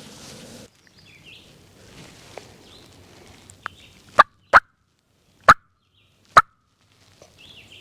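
Wild turkey gobbler gobbling at close range: several loud, short bursts in the second half, after a little rustling of movement stops.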